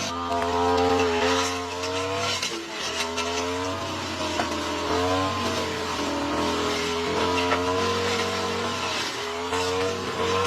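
Lawn mower engine running hard, its pitch sagging and recovering several times as it cuts through thick, overgrown grass.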